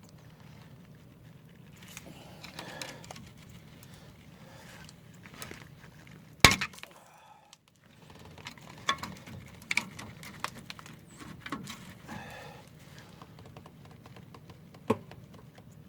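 Metal tools clinking and scraping against a pickup's brake caliper as the caliper piston is pried back, with scattered light taps and one sharp loud knock about six seconds in.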